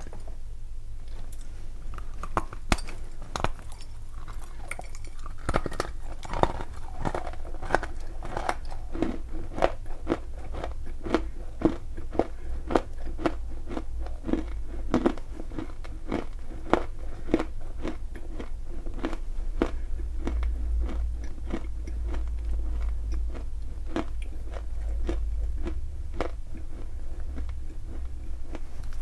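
Close-up biting and chewing of dry, crumbly lumps of edible clay and chalk: a steady run of sharp, brittle crunches, roughly two to three a second, over a low hum.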